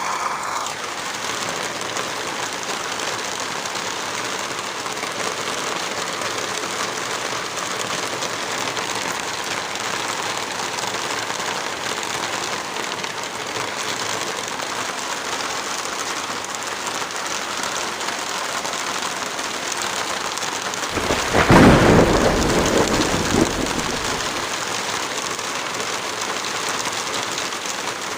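Steady rain, with a roll of thunder rising about three-quarters of the way through and dying away over a few seconds.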